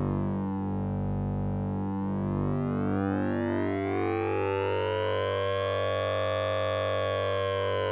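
Electronic oscillator-sync and ring-modulator tone from the Orange Vocoder plug-in: a steady low drone under a dense stack of metallic upper partials. The partials sweep slowly down, then climb over several seconds and start to turn down again near the end.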